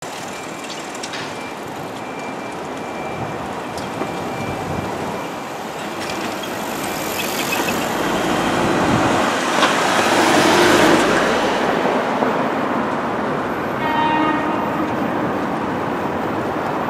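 Trackside rumble of train traffic on an urban electric railway, swelling to a peak in the middle and easing off again. A short tooting tone is heard about fourteen seconds in.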